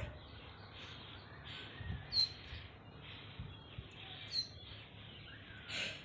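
A few short, high bird chirps, roughly two seconds apart, over low steady background noise.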